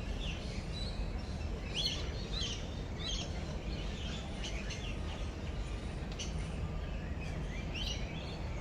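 Birds chirping in short, scattered calls, several at a time in places, over a steady low rumble of background noise.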